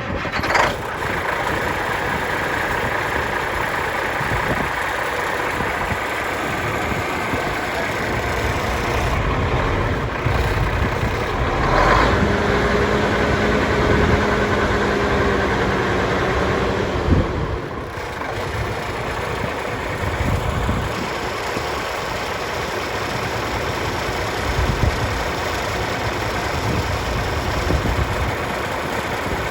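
Mack semi truck's diesel engine firing on a cold start and settling into a steady idle. From about twelve to seventeen seconds in a steady droning tone rides over the engine and then cuts off abruptly.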